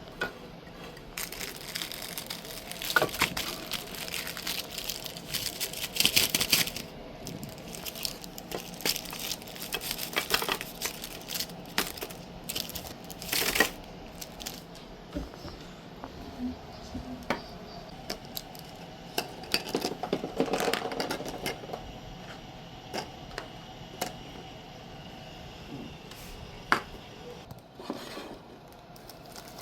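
Irregular crinkling and rustling of plastic packaging or bags, with scattered light clicks and knocks of items being handled and set down.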